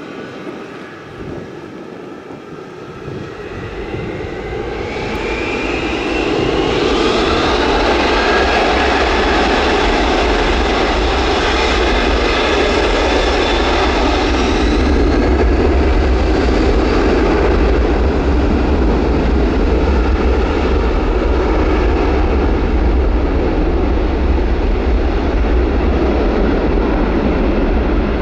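Jet airliner engines growing louder over a few seconds, then running loud and steady with a deep rumble. A whine rises in pitch about five seconds in and holds level.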